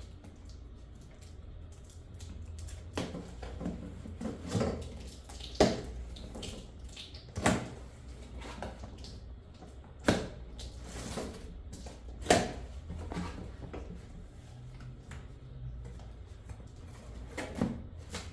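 A cardboard product box being opened and handled: rustling and scraping, with several sharp knocks and clicks, the loudest four spread through the middle, over a steady low hum.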